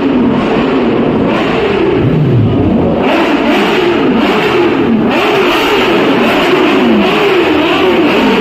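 Superbike engines revving over and over, the pitch climbing and dropping about once a second, loud and continuous.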